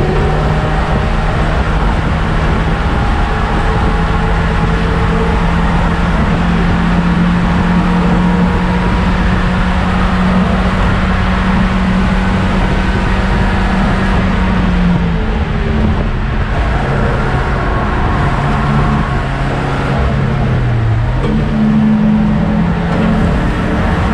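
BMW M42 1.8-litre four-cylinder engine running under load on track, heard inside a stripped E30 race car's cabin over heavy road and wind noise. The engine note climbs slowly for about fifteen seconds and dips, then falls away and jumps back up about twenty-one seconds in, as at a downshift and re-acceleration.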